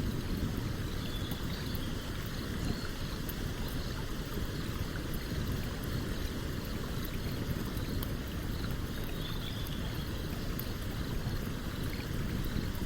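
Stream water rushing steadily, with scattered faint crackles from a campfire burning beside it.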